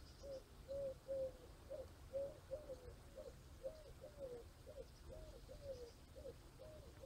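A bird calling in a quick, even series of short, arching hooting notes, about three a second, with faint high chirps near the start.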